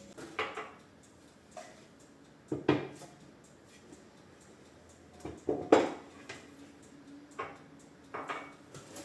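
Dishes and utensils being handled, clinking and knocking in a handful of separate clatters; the loudest comes a little before six seconds in.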